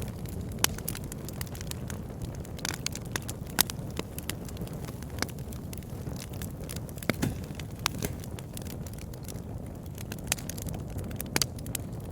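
Campfire burning with a steady low rumble and irregular sharp crackles and pops from the burning wood, several a second at times.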